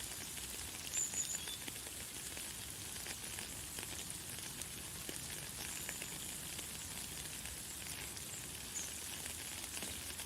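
Light, fine rain falling steadily, a soft hiss full of tiny drop ticks. A few short, high bird notes sound over it, the first about a second in.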